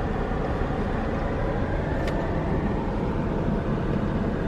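Steady road and engine noise of a car driving, heard from inside the cabin, with a faint tick about two seconds in.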